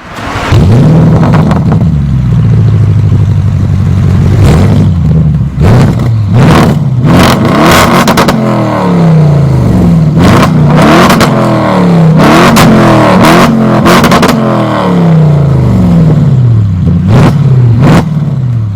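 Audi RS7's twin-turbo 4.0 V8 through a Supersprint sport exhaust, revving hard with the engine note climbing and dropping again and again, broken by several loud sharp cracks.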